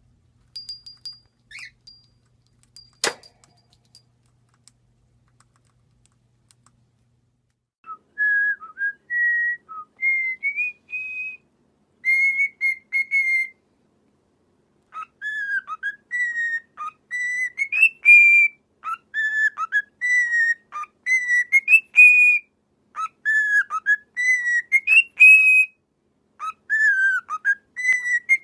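Parrot whistling a tune in short, clear notes that glide up and down, starting about eight seconds in. Before that there are only a few faint clicks and one sharp snap.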